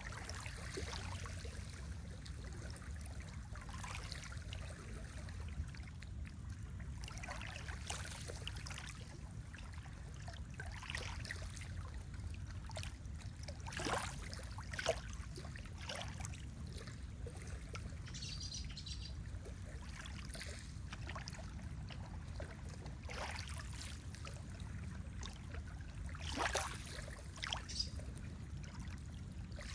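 Lake water lapping and splashing at the shore over a low steady rumble, with a few louder splashes about halfway through and again near the end. Faint high bird chirps come briefly about two-thirds of the way in.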